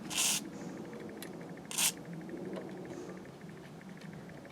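Two short bursts from an aerosol can of WD-40 penetrating oil, sprayed onto a seized stud: a hiss of about a third of a second at the start and a briefer one near two seconds in.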